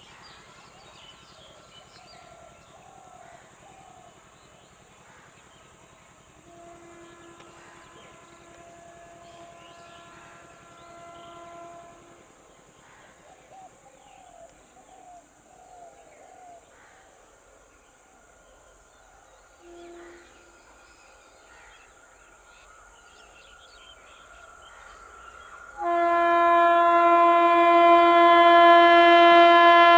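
Birds chirping, with a faint train horn held for several seconds about a quarter of the way in and a short toot around two-thirds in. About 26 s in, the approaching WAP-4 electric locomotive's horn starts suddenly, loud and held steady.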